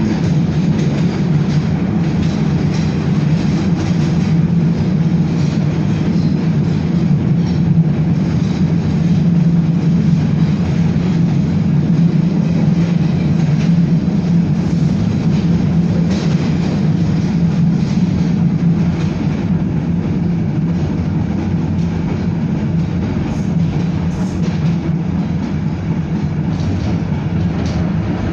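A Belkommunmash BKM-62103 tram in motion, heard from inside the car: a steady rumble of wheels on the rails and running gear with a low hum and a few faint clicks in the second half.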